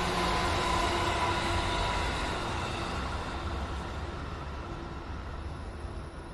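JR 213 series electric train running past and fading away into the distance: rumbling wheel and running noise with a faint whine, dying down steadily.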